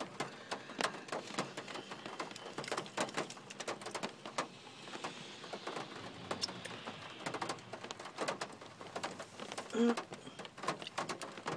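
Close-up mouth sounds of someone eating a chewy bagel with cream cheese: wet chewing, lip smacks and small clicks scattered irregularly throughout. A brief hummed murmur comes about ten seconds in.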